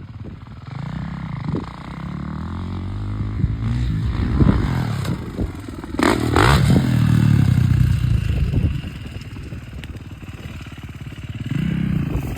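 Dirt bike engine revving and accelerating, rising over the first few seconds and loudest from about six seconds in, then falling away.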